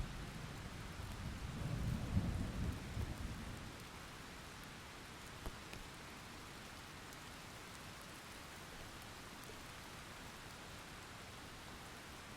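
Steady rain falling with a roll of thunder that swells about two seconds in and fades away by about four seconds.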